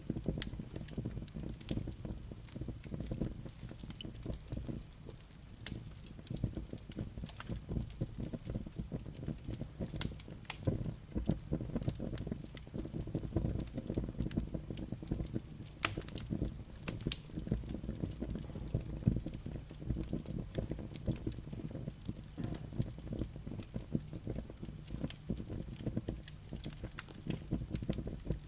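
Wood fire burning in a fireplace: a steady low rush of flames with frequent sharp crackles and pops from the burning logs and embers.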